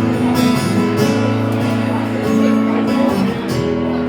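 Acoustic guitar strummed in an instrumental break between sung verses, chords ringing with regular strums.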